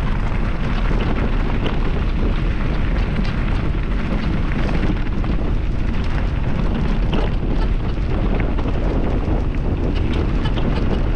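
Wind rushing over the microphone of a bike-mounted camera while an e-bike rolls down a rough track. Tyre rumble runs under it, with a steady scatter of small rattles and clicks from the vibration.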